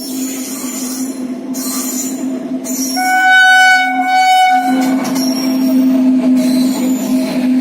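Indian Railways train running with a steady hum, its locomotive giving one horn blast of about a second and a half, starting about three seconds in.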